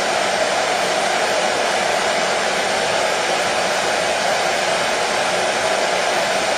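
Hair dryer running steadily: an even, unbroken rushing blow with no change in pitch or loudness.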